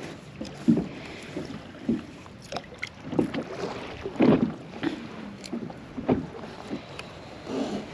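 Water slapping against an anchored fishing kayak's hull: irregular knocks and splashes, the strongest about halfway through, over a light hiss of wind.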